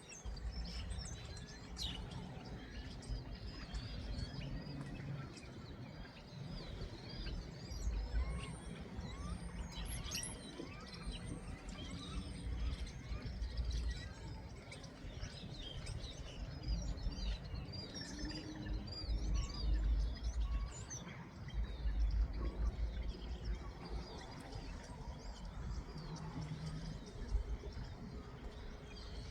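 Small birds chirping and twittering continuously, many short quick chirps overlapping, over an uneven low rumble.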